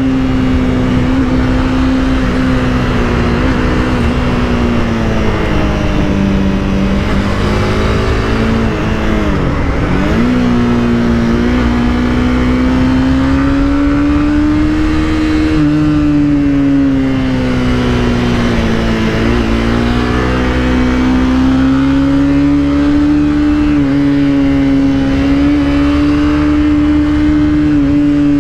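Honda CBR300R's single-cylinder engine running on the move, its note rising and falling with the throttle. It drops sharply and climbs back about a third of the way through, and dips again a little past the middle.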